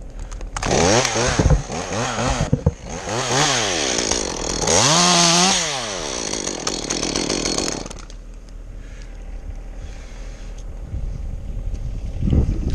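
Two-stroke chainsaw revved up and down about four times, the last rev held for about a second, then dropping back to a lower steady run about eight seconds in.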